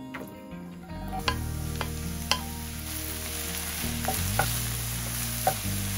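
Shimeji mushrooms sizzling in hot olive oil in a nonstick frying pan as they are stir-fried over high heat with a wooden spatula. The sizzle starts about a second in and runs on, with a few sharp clicks of the spatula against the pan.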